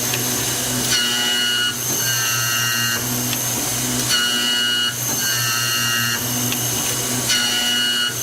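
CM-106 automatic key milling machine running: a steady motor hum with a high whine from the spinning cutter. The whine changes its pitch pattern every second or so as the machine works through the cut.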